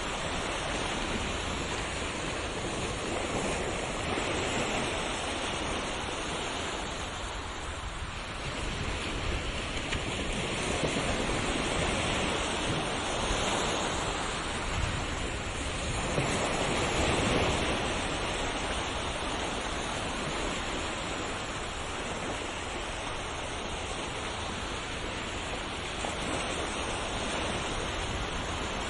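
Ocean waves breaking and washing on a shore in a continuous rushing surf, swelling and easing every few seconds, with the loudest surges about midway and a little after.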